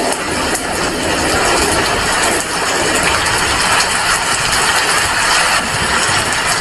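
Rain falling steadily: a dense, even hiss with a fine patter of drops.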